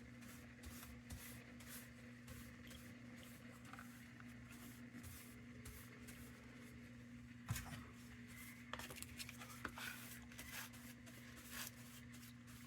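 Near silence: room tone with a steady low hum, and a few faint knocks and rustles from about seven seconds in.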